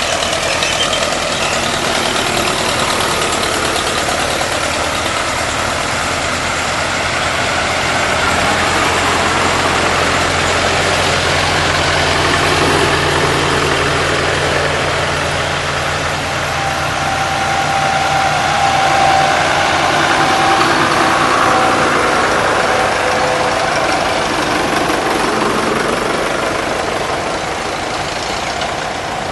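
Vintage tractor engines running as the tractors pass in procession. One engine's low, steady note stands out for about ten seconds in the middle.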